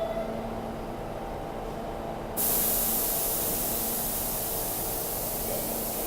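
A stopped New York City subway train's air brakes let out a sudden, loud, steady hiss of venting air about two seconds in, over the low rumble and hum of the train standing at the platform.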